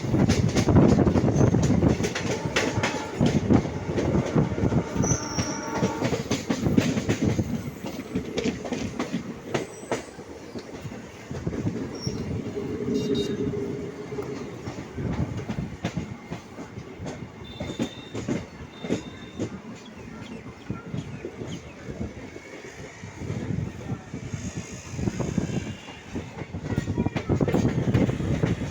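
Indian train's wheels clattering over the rail joints in a dense run of clicks, with a few brief high squeals from the wheels. Louder at the start and again near the end, softer in the middle.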